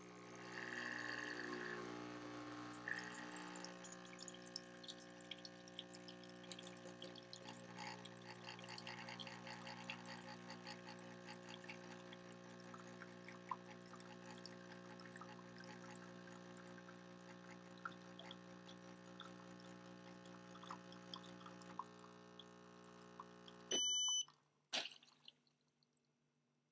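Breville Barista Touch espresso machine's pump humming steadily while espresso trickles and drips into the cup during the shot. About 24 seconds in the pump cuts off with a short electronic beep, followed by a click.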